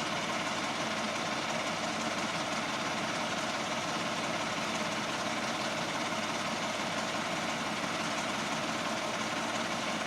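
Fire engine running steadily at the scene, an even, unchanging engine drone.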